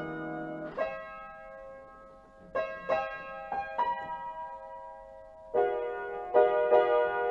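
Piano played slowly, with single notes and chords struck at uneven intervals and left to ring and fade. A louder run of chords comes in the second half.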